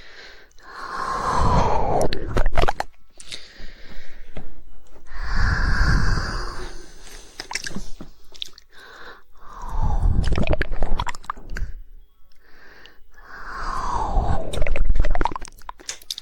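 Close-miked ASMR mouth sounds: wet, breathy swells about every four seconds, with sharp tongue clicks in the gaps between them.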